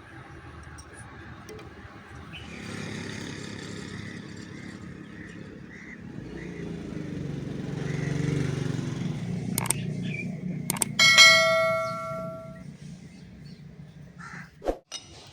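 A piece of steel is struck once and rings clearly for about a second and a half, over a low rushing noise that swells and then fades.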